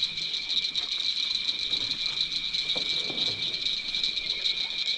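Steady chorus of night insects in the swamp, a dense high-pitched pulsing trill that holds at an even level throughout.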